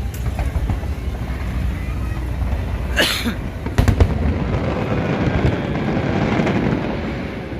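Aerial fireworks going off: a crackling burst about three seconds in, then two sharp bangs less than a second later, over a steady rumble of noise.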